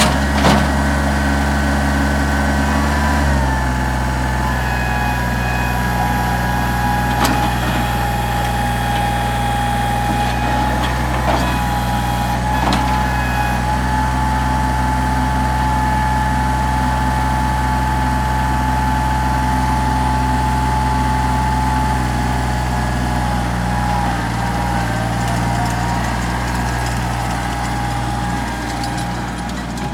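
Kubota 3830 tractor loader's diesel engine running steadily, its speed dropping slightly about three seconds in, with a few sharp clicks.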